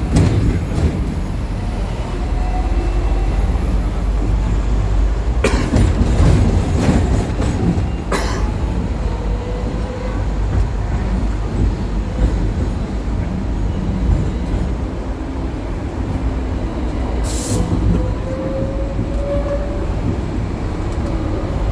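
Hong Kong double-decker electric tram running along its street track, heard from on board: a steady low rumble of wheels and motor. A few sharp clacks of the wheels over rail joints or points cut through, and a faint whine rises in pitch near the end.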